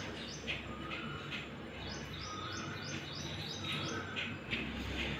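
A small bird chirping in the background: several quick runs of short, high, repeated chirps, faint against the low hum of the room.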